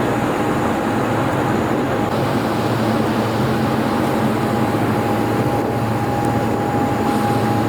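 Steady drone of an engine-driven vehicle running at a constant speed, with an even hum and a steady higher tone over a wash of noise.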